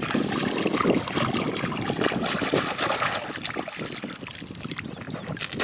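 Water splashing and trickling in irregular small bursts.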